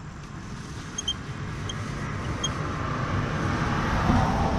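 A motor vehicle passing by: its road noise swells steadily and is loudest near the end.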